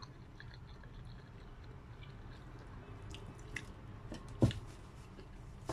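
A person chewing noodles in soup at close range, with small wet mouth sounds and clicks. A single sharp knock about four and a half seconds in is the loudest sound.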